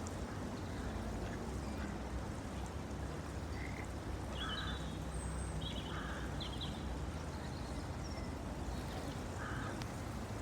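Ducks giving a few short quacks over a steady low rumble of outdoor background noise.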